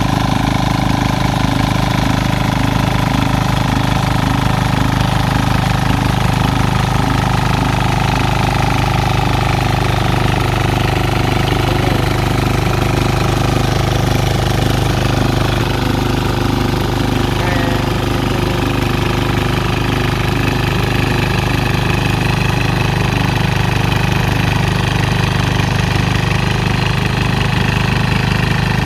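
Small diesel engines of mini tillers running steadily at an even pace while tilling a rice paddy.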